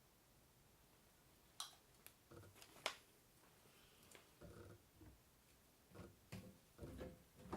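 Faint, scattered clicks and light knocks, about half a dozen over several seconds, the sharpest two in the first three seconds.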